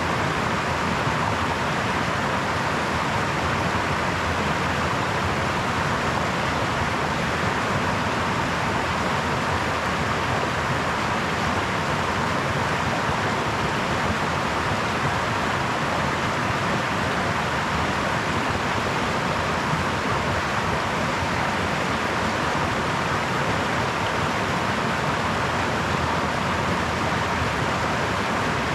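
Babbling brook, water flowing in a steady, even rush with no change in level.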